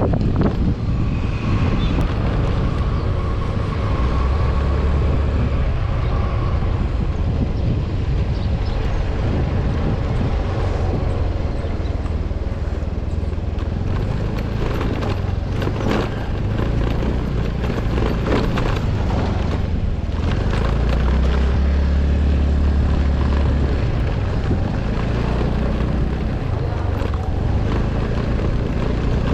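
Vehicle engine running under way, its pitch rising and falling with the throttle, over wind noise on the microphone, with scattered knocks and rattles.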